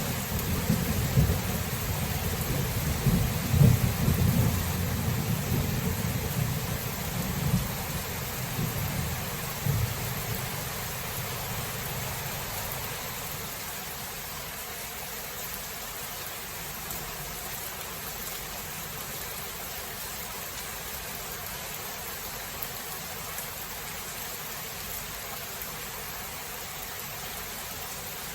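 A long roll of thunder rumbling low and dying away over the first ten seconds or so, over steady heavy rain. The rain carries on alone and evenly after the thunder fades.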